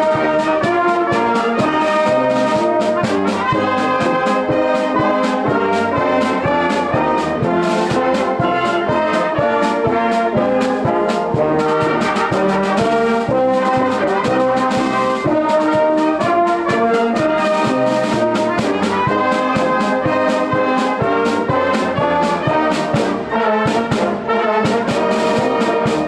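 Brass band music: trumpets and trombones playing chords over frequent drum strikes.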